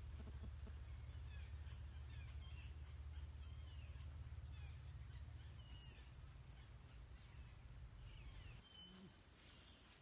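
Faint bird chirps and short whistles, many small rising and falling calls in a scattered run, over a low steady rumble that drops away near the end.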